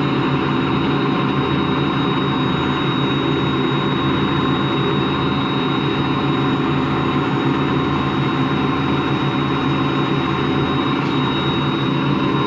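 Empty washing machine spinning at speed, giving a steady growling grind with a slow rise and fall in the low hum and a thin high whine over it. The owner takes the growl for bad motor bearings.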